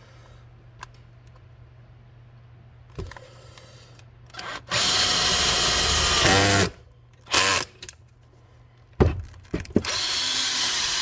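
Power drill boring a rivet hole in a leaf blower nozzle, run in trigger bursts: a short blip about four seconds in, a run of about two seconds that winds down, two brief bursts, then steady drilling near the end.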